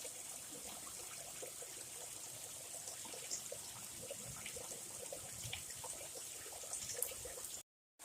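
Faint, steady trickle of a creek, with scattered light ticks; the sound cuts out abruptly near the end.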